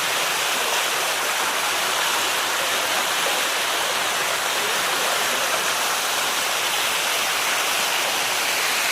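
Waterfall pouring and splashing in a steady, even rush close by, coming up suddenly at the start and then holding steady.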